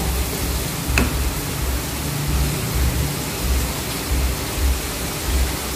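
Spice paste frying in a wok with a steady sizzling hiss, with a sharp click about a second in.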